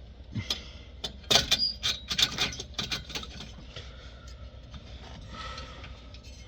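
Hand tools and metal exhaust hardware clinking and clanking in a quick irregular run, followed by softer metal scraping.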